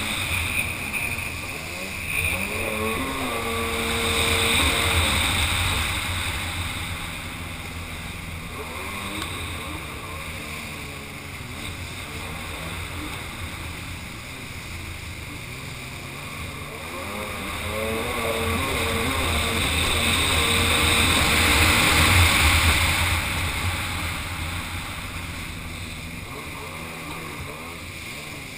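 Kawasaki 800 SX-R stand-up jet ski's two-stroke twin engine running, its revs rising and falling repeatedly, loudest twice, with a steady rush of water and wind.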